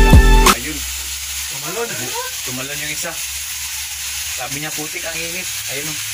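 Eel and small crabs frying in a wok on a gas stove, a steady sizzle. A song cuts off about half a second in, and faint voices come and go under the sizzle.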